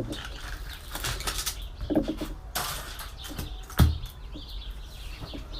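Computer parts being handled while scrapping: scattered clicks and knocks, with a heavier thump about four seconds in.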